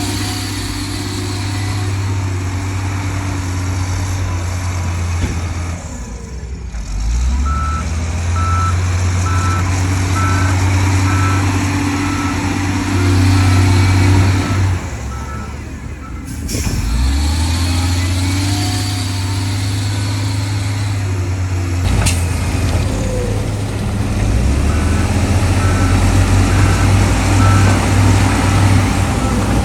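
Heavy diesel earthmoving machinery running, its engine drone swelling and easing, with a reversing alarm beeping about twice a second in two spells, once early and once near the end. The sound breaks off abruptly a few times.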